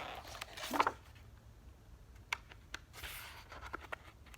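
Paper rustling and light clicks as a picture book's pages are handled and turned, with the loudest rustle just under a second in and a softer one about three seconds in.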